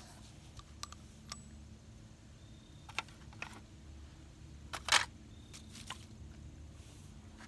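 Scattered light clicks and knocks from objects being handled, the loudest a quick double knock about five seconds in, over a faint steady hum.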